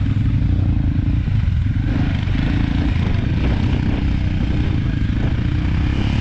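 Motorcycle engines running slowly with a loud, steady low rumble, as machines creep along at walking pace in a slow race.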